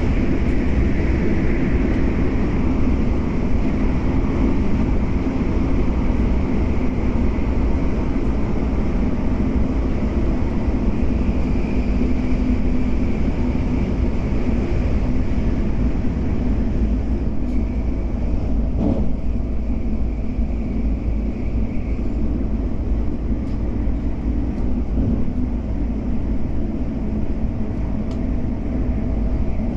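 Cabin ride noise of a CAF-built MTR Airport Express train running at speed: a steady rumble of wheels on rail with a faint whine over it, and a single short knock about two-thirds of the way through.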